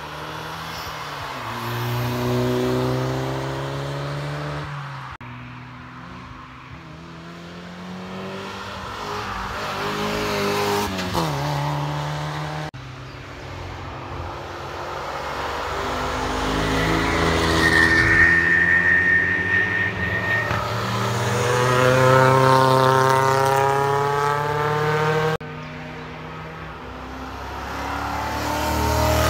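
Cars driving past on a race track one after another, engines pulling hard through the gears as each approaches and fades, in several separate passes that cut off abruptly. A brief steady high whine sounds near the middle.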